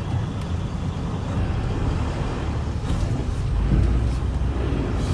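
Semi-truck running down the road, heard from inside the cab: a steady low engine and road rumble that grows a little heavier about three and a half seconds in.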